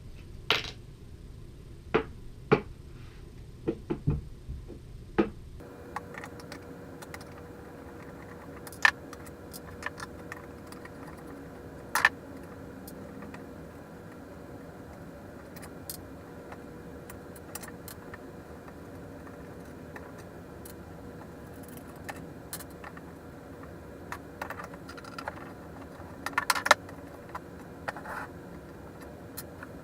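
Skateboard hardware and tools being handled: scattered sharp clicks and clacks of metal parts, with a few louder knocks. After a cut about six seconds in, a faint steady hum lies underneath.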